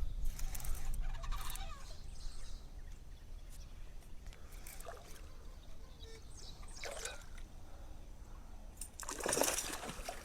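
Water splashing in short, irregular bursts, with the loudest splash near the end.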